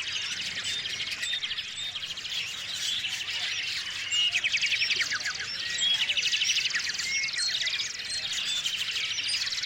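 Several small songbirds chirping and calling over one another, with quick rattling trills a few times, around a second in, about four seconds in and again near six seconds.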